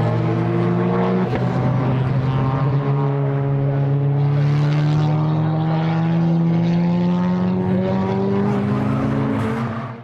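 Time-attack race car engine under load: a shift about a second in, then a long, steady climb in pitch as it accelerates, cut off abruptly near the end.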